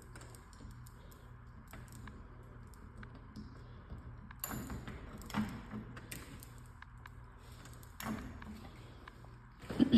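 Quiet indoor room tone with a low steady hum, broken by scattered light taps and knocks of footsteps and handling as someone walks through a house. There is a louder thump right at the end.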